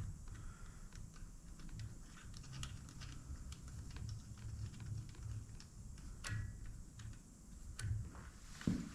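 Scattered light clicks and taps of small metal hardware and tools being handled, with one sharper metallic clink that rings briefly about six seconds in and a dull thump near the end, over a low background rumble.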